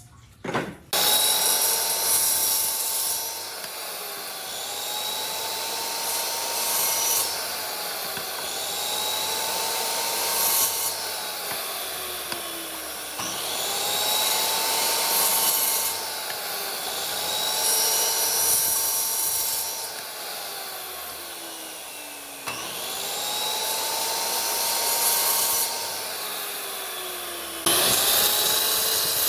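Woodworking power tool cutting or abrading wood in repeated passes, a rasping noise over a motor tone that sags and recovers every few seconds as the tool takes and releases load.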